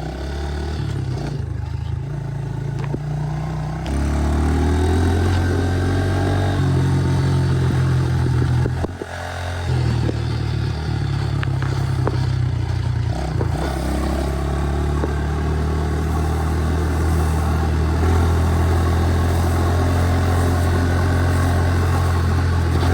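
The single-cylinder four-stroke engine of a 2017 Honda 110 pit bike, heard from the rider's chest while riding. The revs step up about four seconds in and ease off briefly near the middle, then the engine holds a steady pull under throttle.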